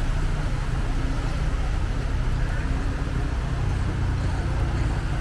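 Steady street noise on a flooded road: a continuous low rumble of vehicle traffic with a hiss of noise above it, unchanging throughout.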